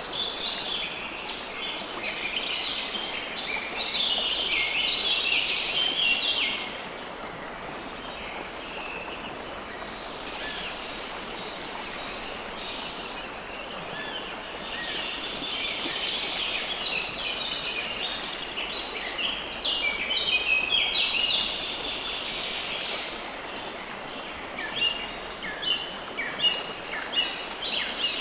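River water flowing steadily, with small birds chirping over it in bouts. Near the end the birdsong turns into a quick series of short, separate notes.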